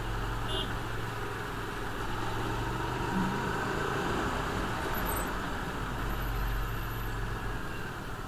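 Hyosung GTR V-twin motorcycle engine running steadily at riding speed, under a steady rush of wind and road noise.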